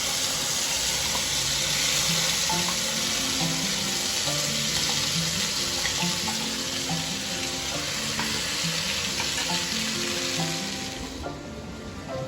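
Oil sizzling hard as stuffed pointed gourds (potol) fry in a pan. The sizzle starts abruptly and fades out about eleven seconds in.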